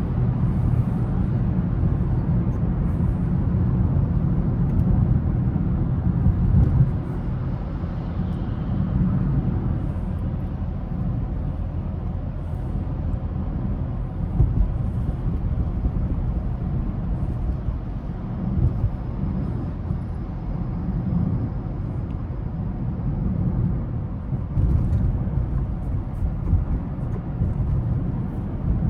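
Car being driven through city streets: a steady low rumble of engine and tyre road noise, easing slightly about seven seconds in.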